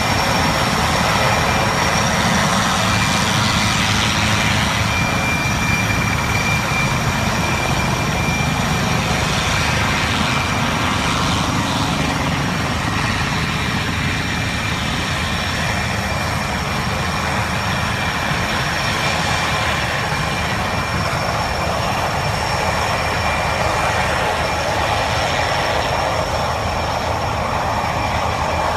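Helicopter engines and rotors running, a steady loud rumble with a thin, high, steady whine over it.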